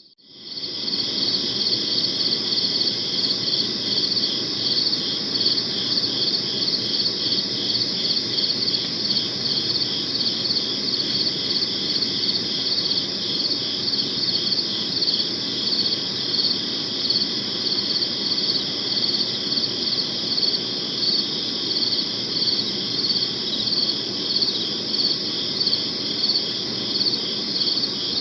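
Crickets chirping in a steady, high, pulsing chorus that fades in over the first second.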